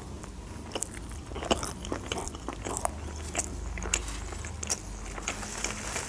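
Chewing a mouthful of sushi roll, heard as irregular sharp mouth clicks.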